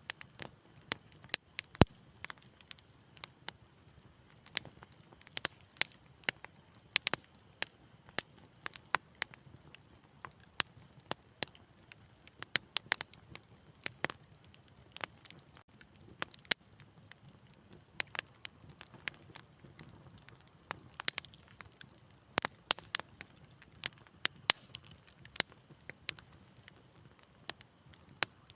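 Wood fire crackling in a fireplace: irregular sharp pops and snaps, several a second at times, over a faint low hiss of burning.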